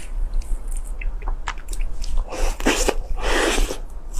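Close-up eating sounds of soft cake: wet chewing and mouth clicks, with two longer squishy mouth noises in the second half.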